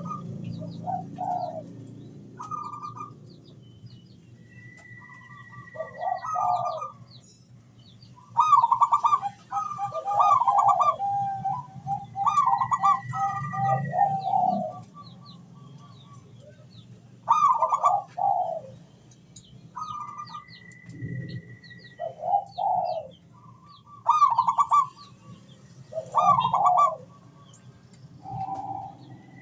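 Zebra doves (perkutut) cooing: bursts of rapid, rolling coos repeating every few seconds. Small birds chirp faintly throughout, and a thin steady whistle about a second long comes back several times.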